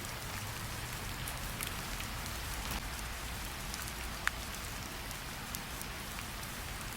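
Steady rain falling on a surface, with scattered sharp crackles from a campfire and one louder pop a little past the middle.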